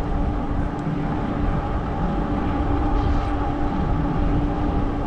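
Cyrusher Kommoda 20-inch fat-tire e-bike under way: a steady motor whine over the rumble of the fat tyres and wind on the microphone.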